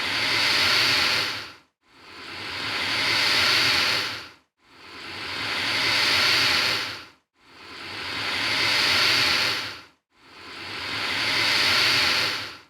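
Alligator hissing over and over: about five long hisses in an even rhythm, each swelling and then fading over roughly two and a half seconds, with short silent gaps between.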